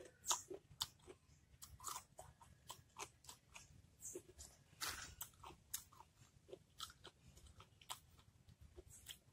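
Crunchy chewing and biting of slices of unripe young mango dipped in rujak sauce: a quiet, irregular run of crisp crunches.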